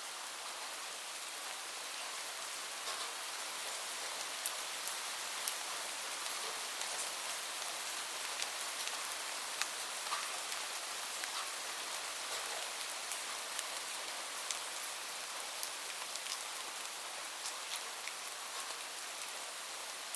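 Steady rain falling, a hiss with many sharp individual drop ticks scattered through it.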